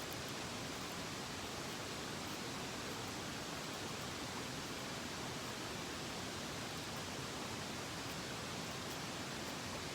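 Steady rushing of a mountain stream, an even hiss of flowing water that does not change, with a few faint ticks over it.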